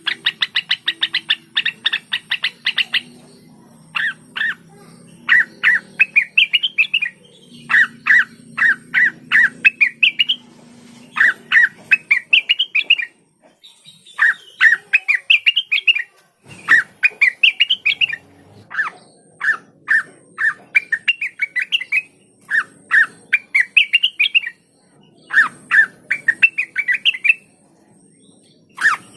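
Cucak wilis (rengganis) singing in a steady stream of short, fast phrases, each a rapid string of chirping notes that sweep upward, separated by brief pauses.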